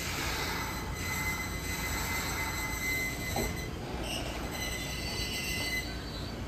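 Toyama Chiho Railway 20020 series electric train, the ex-Seibu 10000 series New Red Arrow, creeping slowly into the station as it brakes. A thin high-pitched squeal from the running gear is held for several seconds over the low rumble of the cars and stops near the end, with a single knock about halfway through.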